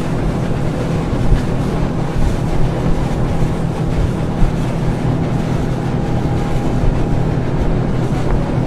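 A fishing boat's engine running steadily under way, its low hum mixed with wind buffeting the microphone and water rushing past the hull.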